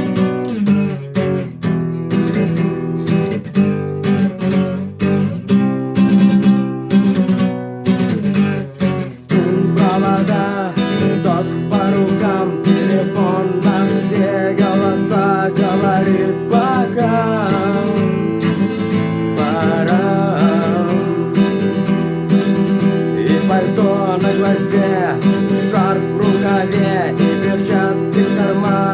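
Acoustic guitar strumming chords, the instrumental part of the song. About nine seconds in, a wavering melody line joins over the strumming.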